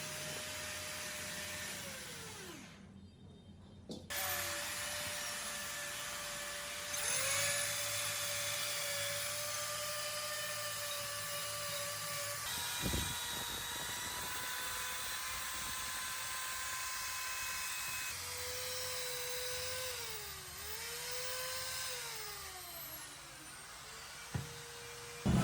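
Small electric power tool motor whining steadily at high speed. The pitch dips and recovers several times near the end, as the tool bites into the work, and the whine winds down and restarts across a few cuts.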